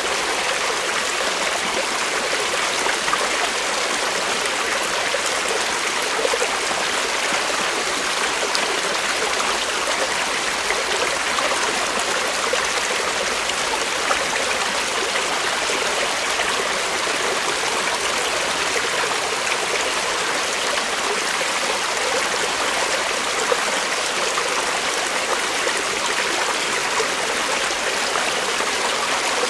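Creek water flowing and burbling over rocks in a steady, even rush.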